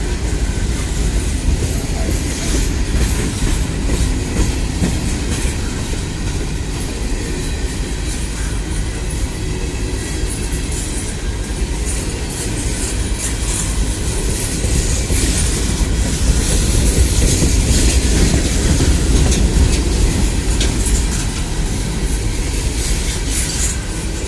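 Train rolling past, its cars' wheels clattering over the rail joints in a steady run of clicks over a low rumble, growing louder for a few seconds past the middle.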